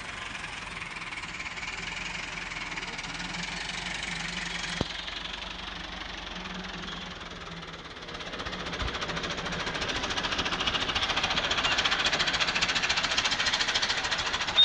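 Tractor diesel engine running with a rapid knocking rattle, growing louder from about eight seconds in as it is revved up or put under load.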